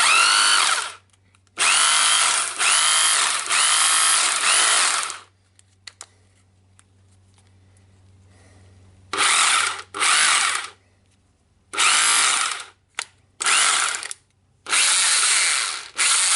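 Freshly reassembled Dewalt D25003 rotary hammer test-run in repeated short bursts, the motor whining up to speed each time the trigger is pulled. The longest run lasts about three and a half seconds near the start, then a pause, then a string of shorter bursts. The tool runs, showing the restoration worked.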